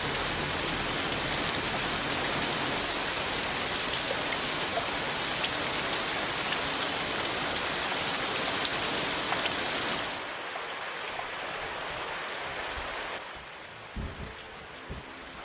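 Heavy rain pouring down, a dense steady hiss of drops hitting the ground. It eases about ten seconds in and again a few seconds later, with a couple of short low thuds near the end.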